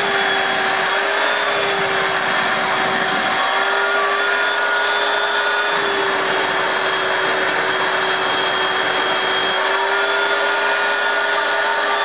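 Vacuum cleaner running steadily, a constant motor rush with a steady hum. Its lower tone shifts slightly a few times.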